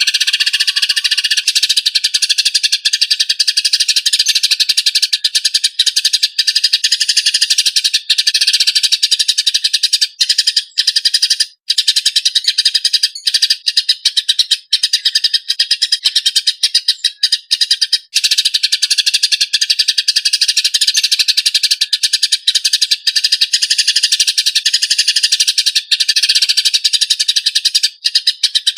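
Eurasian tree sparrows (burung gereja) giving the harsh, tightly packed chatter of fighting birds: a rapid, almost unbroken stream of chirps, with one short break about eleven seconds in.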